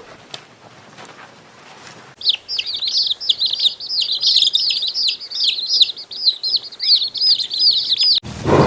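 Small birds chirping and twittering rapidly, many quick high-pitched chirps overlapping. The chirping starts about two seconds in and cuts off suddenly near the end.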